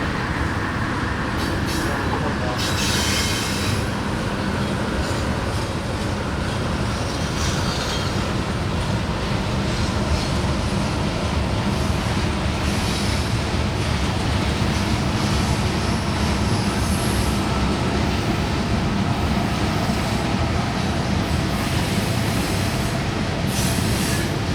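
Freight train cars rolling past with a steady rumble of steel wheels on rail, and brief high wheel squeals several times.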